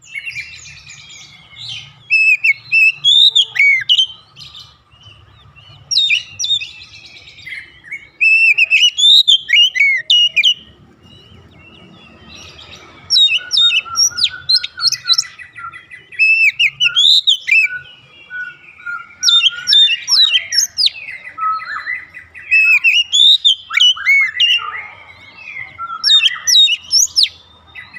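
Oriental magpie-robin singing: loud, varied phrases of quick gliding whistles and chattering notes, delivered in bursts with short pauses between them.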